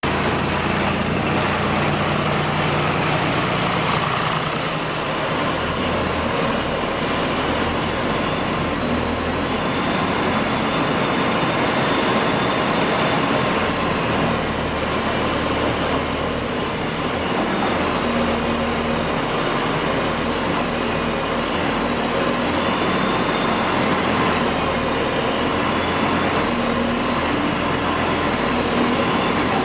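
Heavy diesel farm machinery running steadily, a continuous engine rumble with a faint steady whine above it.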